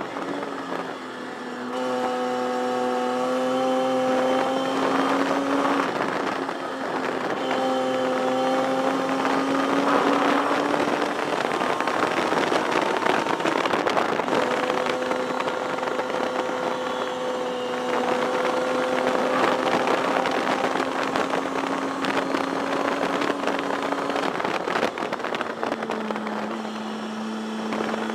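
1973 Datsun 240Z race car's inline-six engine, heard from inside the cockpit, running hard with its note climbing slowly in long pulls. The note breaks off about six, eleven and twenty-four seconds in, then holds lower and steady near the end, over a constant rush of wind and road noise.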